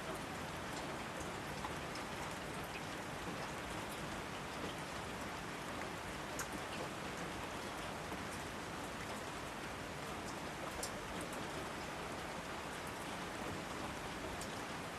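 Steady rain falling on foliage, a constant hiss with scattered sharp drop ticks.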